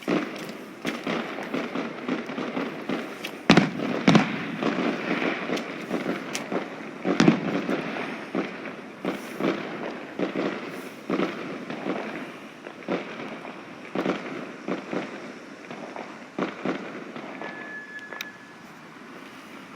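Fireworks going off all around in a dense run of bangs and crackles. The heaviest bangs come about four and seven seconds in, and the bangs thin out toward the end, where a short steady whistle sounds.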